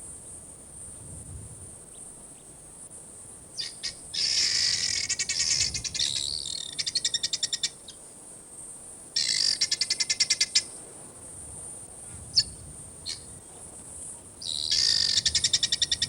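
Bird calls in three loud bursts of rapid chattering notes, about four, nine and fifteen seconds in, with a couple of single short chirps between them, over a steady high hiss.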